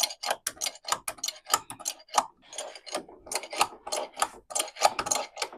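Car jack being worked to raise the front of a car, with metal clicks coming several times a second.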